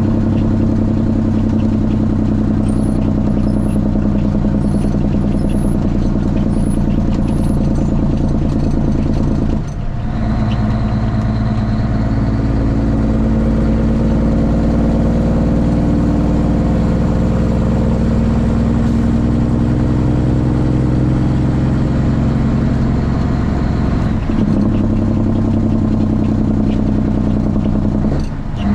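Straight-piped Cummins ISX inline-six diesel in a Kenworth T800 running steadily under load. The engine note breaks off briefly about ten seconds in, again near the end and once more just before the end, the way a truck drone drops out at gear changes. Between the first two breaks the pitch climbs slowly as the truck pulls through a gear.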